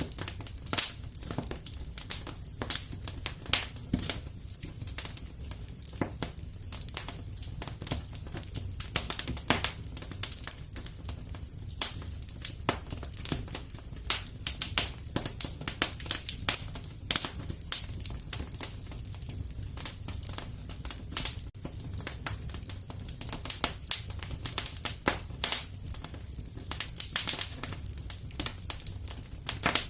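Fireplace wood fire crackling, with frequent irregular sharp pops over a steady low rumble of flame.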